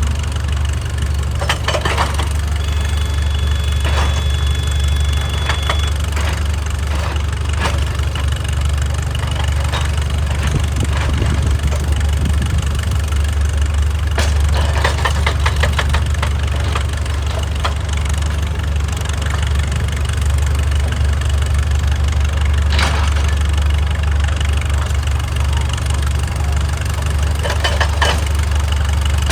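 Excavator's diesel engine running steadily, with spells of clattering and scraping every few seconds as it works rock, and a thin high whine for a few seconds near the start.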